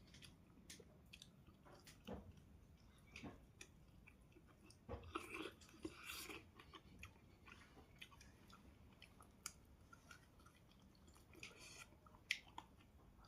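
A person chewing and eating close to the microphone, with faint wet mouth clicks and small crunches. The loudest bites come about five to six and a half seconds in.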